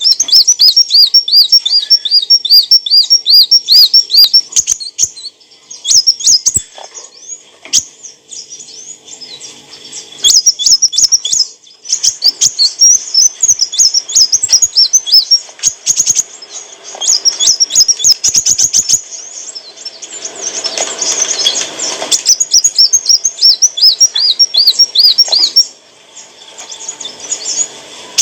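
Kolibri wulung sunbird singing: fast runs of high, arching chirps, about five a second, broken by short pauses. About two-thirds of the way through there is a brief noisy rustle.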